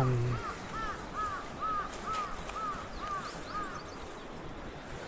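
A bird calling in a quick series of about nine short, clear notes, each rising and falling in pitch, about three a second, stopping near the end.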